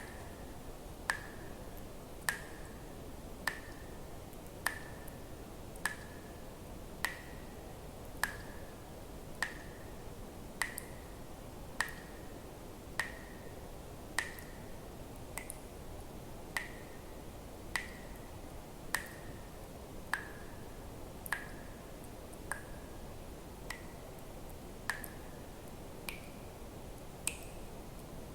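Water drops falling at an even pace, about one every 1.2 seconds. Each drop is a sharp plink with a brief ringing tone; near the end a couple of drops ring slightly higher. A faint steady hiss lies underneath.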